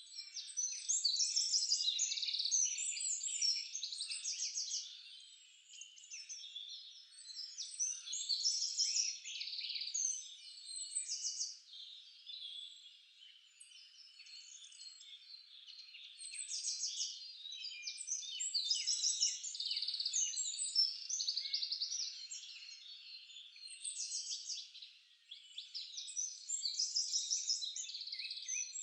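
Several songbirds singing at once in a forest chorus: overlapping chirps, whistles and fast trills, swelling into loud phrases every few seconds and dropping back between them.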